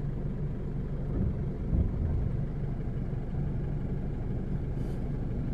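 Car engine idling steadily, a low rumble.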